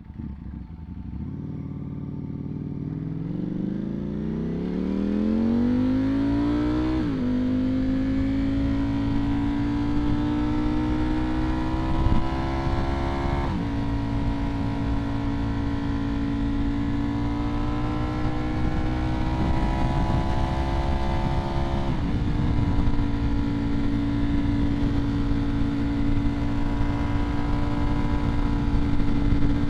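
Ducati Streetfighter V4S's 1103 cc V4 engine through a Vandemon aftermarket exhaust, pulling away and accelerating. It upshifts about seven, thirteen and twenty-two seconds in, each shift a sudden drop in pitch, and then settles into a steady cruise.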